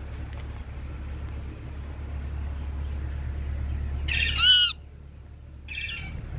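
Indian ringneck parakeet giving one loud, harsh squawk about four seconds in, then a shorter, softer call near the end. A low steady rumble runs underneath and drops away after the first squawk.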